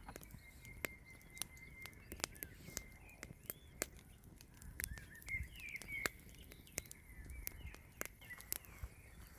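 Faint chirping of small birds, with scattered light clicks and ticks.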